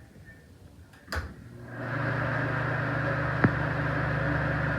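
A click about a second in, then an exhaust fan motor starts and runs with a steady hum and airflow, its blower wheel now held firmly on the shaft by a wedged zip tie. A single sharp tick comes about three and a half seconds in.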